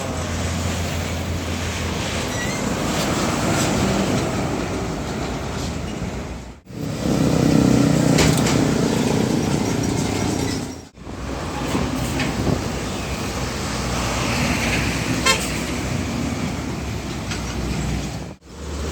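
Heavy diesel trucks running past in traffic, in several short clips cut one after another, with a truck horn sounding among the engine and road noise.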